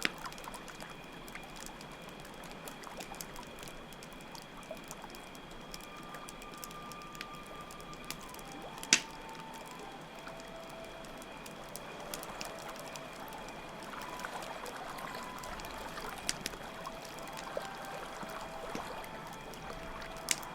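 Layered night ambience: water trickling and pouring steadily under a constant chirring of crickets, with campfire crackles and pops (one sharp pop about nine seconds in). From about six seconds in, a soft flute plays a few slow, held notes.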